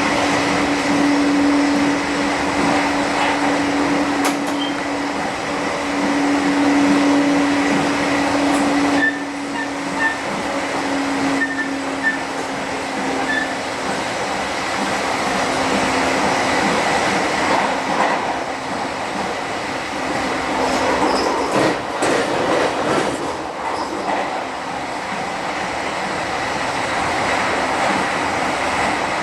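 Running noise of an electric commuter train heard from inside the passenger car while it is moving: a steady rumble of wheels on rail, with a steady low tone that fades out after about twenty seconds.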